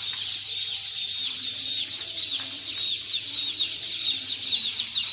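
A large mass of baby chicks peeping all at once: a dense, unbroken chorus of short, high, downward-falling chirps.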